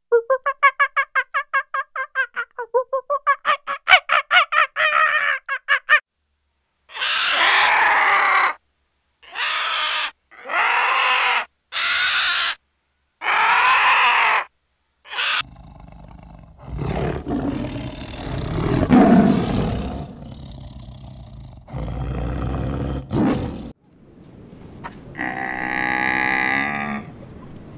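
A sequence of different animal calls. It opens with a long-tailed macaque's rapid, pulsed chattering call, about five pulses a second, followed by five separate rising-and-falling calls. Then comes a long noisy stretch of hissing and rumbling grunts, and near the end a dromedary camel's drawn-out groaning call.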